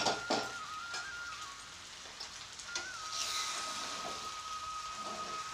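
Fish head and spiced masala frying in hot oil in a steel karahi, sizzling, with a few quick spoon knocks against the pan at the start; the sizzle grows stronger about halfway through. A thin steady high tone runs underneath.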